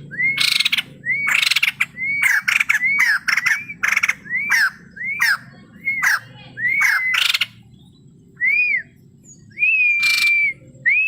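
White-crested laughingthrush singing: a rapid run of clear whistled notes that arch up and down, mixed with harsh raspy bursts. The notes come about once or twice a second, then thin out near the end into a few single whistles, one of them held longer.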